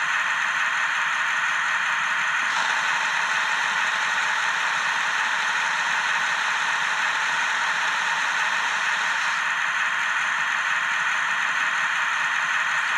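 Sound-decoder diesel engine noise of a model BR 225 locomotive playing through its small built-in loudspeaker: a steady, hissy running sound with no deep bass.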